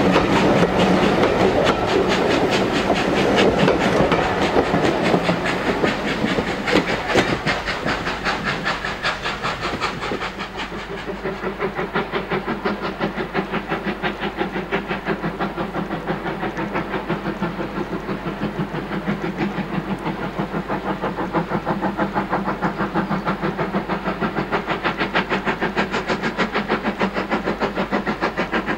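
A train running on the line, with a rapid, even beat. The sound is louder and busier for about the first ten seconds, then settles into a steady pulsing rhythm.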